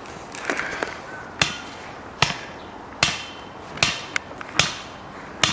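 Evenly spaced heavy strikes, about one every 0.8 seconds, driving a pole into the ground; each blow is sharp with a short ring.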